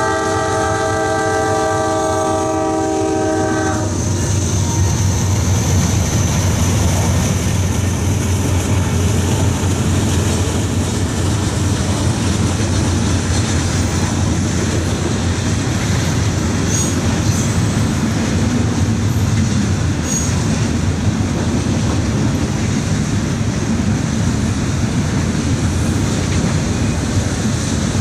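Locomotive air horn sounding several notes at once, cutting off about four seconds in, over the steady rumble and wheel clatter of a passing train that continues after the horn stops.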